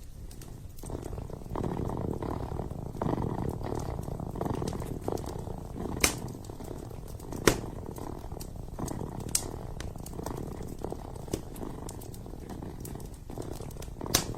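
Kitten purring steadily, a dense low rumble, with a few sharp pops from a wood fire burning in a fireplace.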